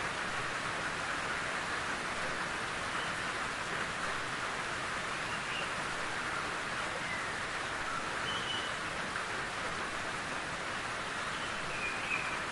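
Steady rain falling in a forest, an even hiss with a few faint short high notes scattered through it.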